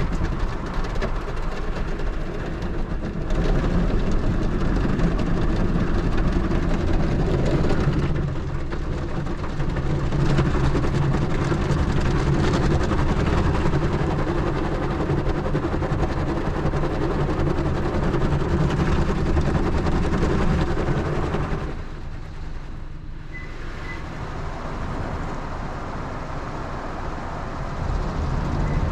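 Automatic car wash machine running over the car, heard from inside the car: a steady mechanical rumble with water spray rushing against the body. It eases off for a few seconds late on, then picks up again.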